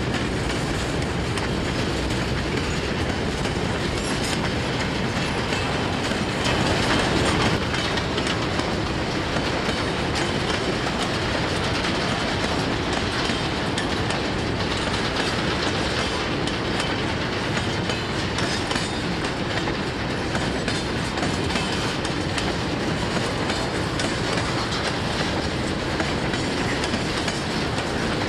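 Freight train rolling past, its wagons' wheels clacking steadily over the rail joints, slightly louder about a quarter of the way in.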